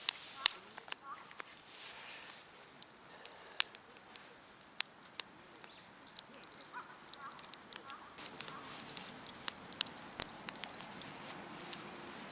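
Wood campfire crackling, with scattered sharp pops and snaps over a soft hiss, the pops coming more often in the last few seconds. A few faint bird chirps in the background.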